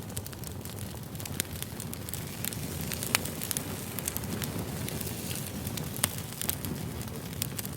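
Campfire crackling: a steady rustle of burning wood with frequent sharp, irregular pops.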